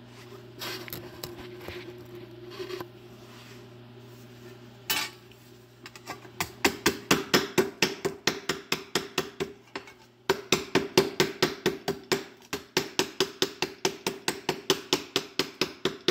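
Body hammer tapping a cut piece of sheet steel on a vise's anvil to flatten its distortion and beat down the edges. A few scattered taps, then quick, even taps about three a second from about six seconds in, with a short break near ten seconds.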